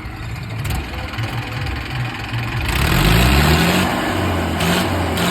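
Diesel tractor engine idling with a low, uneven beat, then revving up about two and a half seconds in and running louder under throttle.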